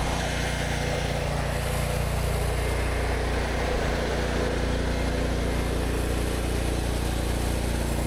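Gas engine of an 8 gpm pressure washer running steadily, with a rushing hiss of water spray as the concrete is rinsed.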